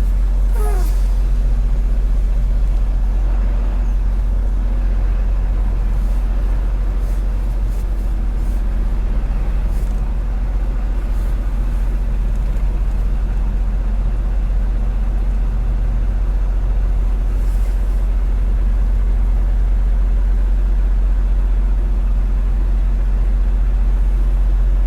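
Semi-truck diesel engine running with a steady low drone, heard from inside the cab.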